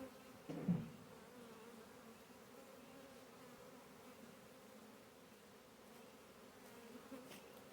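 Honey bee swarm buzzing, a faint steady hum, with a short knock a little over half a second in.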